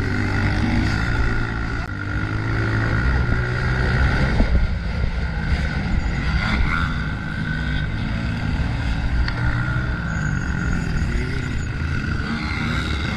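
Honda CRF125F's single-cylinder four-stroke engine running on an off-road course, its note rising and falling as the throttle is worked.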